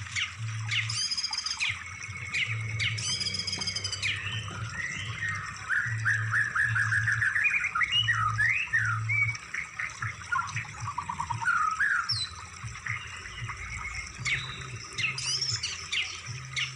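Mixed songbird calls from a compiled bird-song training track: harsh repeated calls alternate with fast trills and chirps. A low hum pulses on and off underneath.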